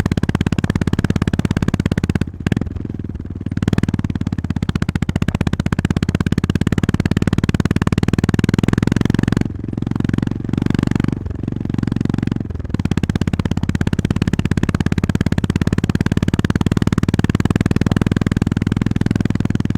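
Honda GB350S's air-cooled single-cylinder engine running under way, its exhaust thudding in an even beat. The throttle eases off briefly about two seconds in and again for a couple of seconds around the middle, then picks up again.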